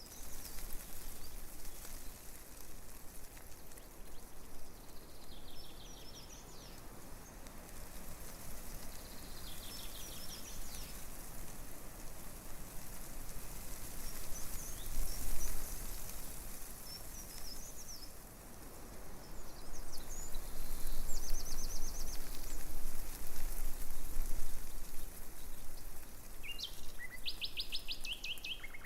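Breeze rustling tree leaves with a steady hiss, swelling louder for several seconds about two-thirds of the way through. Small songbirds chirp in short rapid trills now and then over it.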